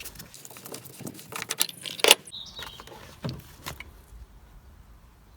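Hands handling tools and parts: a run of small clicks and rattles, with a sharp click about two seconds in, a short squeak just after, and a few more clicks before it goes quieter.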